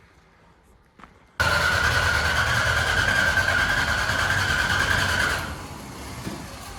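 Starter motor cranking the 1981 Dodge D150 pickup's engine for about four seconds with a steady whine, cutting off without the engine catching. A click comes just before the cranking starts.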